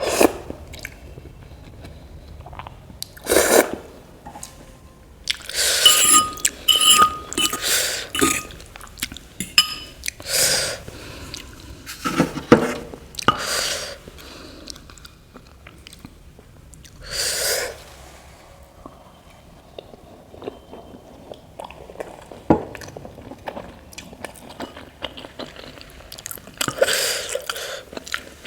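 Close-up eating sounds: slurping and chewing of noodles and momos, in irregular clusters of wet mouth noises and short clicks with quieter gaps between.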